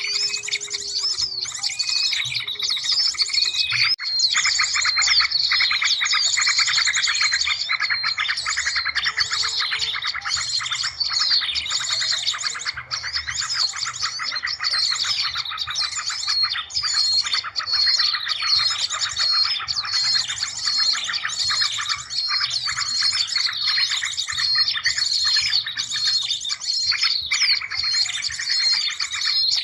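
Dense chorus of many small birds chirping and trilling over one another, continuous and high-pitched: a bird-lure (pikat) call recording meant to draw in small birds.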